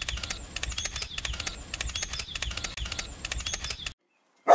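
Rapid clattering clicks in quick clusters, about two a second, cutting off suddenly near the end.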